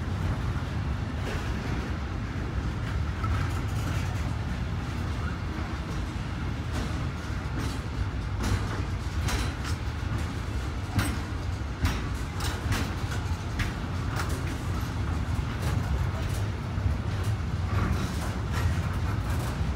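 Intermodal container freight train's wagons rolling past on the track: a steady low rumble, with many sharp clicks and knocks from the wheels and wagons, which come more often in the second half.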